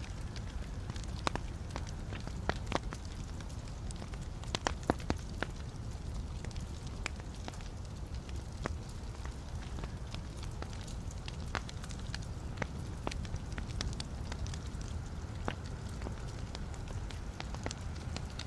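Log fire burning in a fireplace, crackling: irregular sharp pops and snaps over a steady low rumble of the flames, with a cluster of louder pops about five seconds in.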